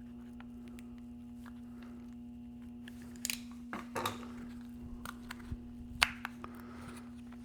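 A small cardboard box of touch-up paint being opened and unpacked by hand: scattered clicks, taps and crinkles of card and packaging from about three seconds in, the loudest a sharp tap near the end, over a steady low hum.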